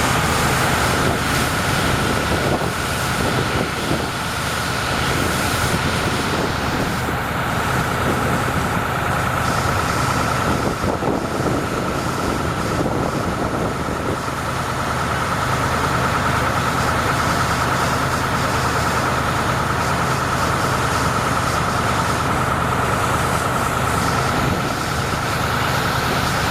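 Heavy truck engine running steadily, with a steady high-pitched whine over it and a constant hiss.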